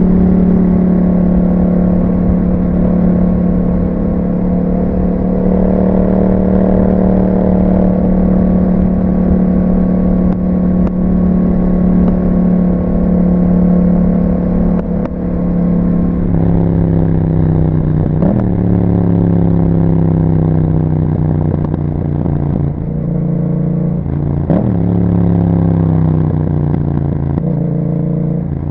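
Yamaha MT-07's parallel-twin engine through an Akrapovic exhaust, under way at steady revs for a little over half the time. It then slows with the pitch falling, broken by three quick sharp rev spikes, the pattern of downshifting while decelerating.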